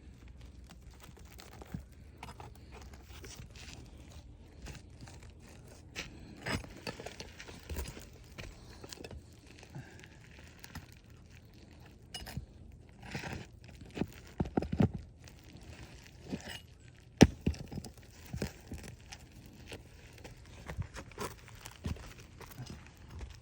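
Asphalt roof shingle being worked loose by hand and tool: irregular scraping, crackling and scattered clicks, with one sharp, loud click about two-thirds of the way through.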